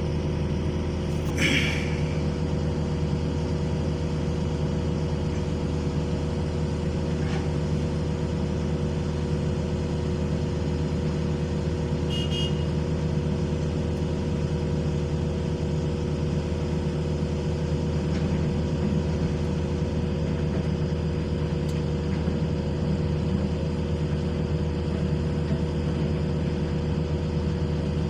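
Heavy diesel engine running steadily at constant speed, with a brief sharp sound about a second and a half in.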